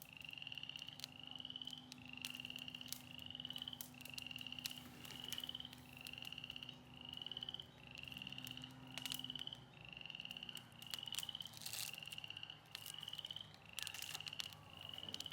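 A small animal calling over and over: a short, slightly rising trilled call repeated about every 0.7 seconds, with scattered faint clicks.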